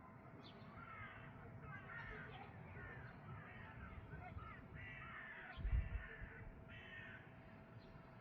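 European serin singing: several phrases of fast, jingling twittering. A short low thump about two-thirds of the way through is the loudest sound, with a faint steady hum underneath.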